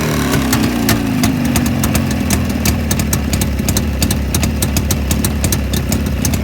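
Freshly overhauled Jawa 350 two-stroke twin motorcycle engine running, its revs falling away in the first couple of seconds and settling into a steady idle, with frequent sharp clicks over the engine note.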